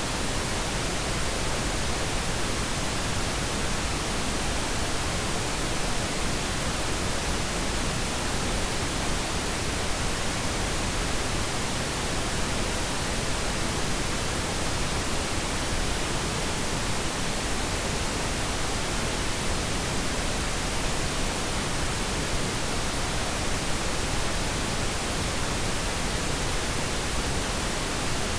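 Steady synthetic pink noise: an even, unchanging hiss spread across the whole range, softer in the highs than white noise.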